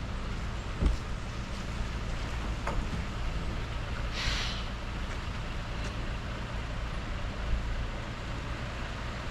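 Heavy truck's engine running steadily, with a knock about a second in and a short hiss about four seconds in.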